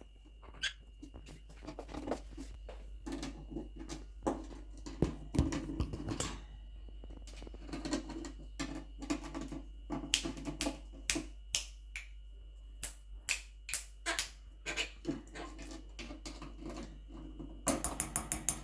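Quaker parrot moving about its cage, with irregular clicks and taps throughout that come faster and closer together near the end.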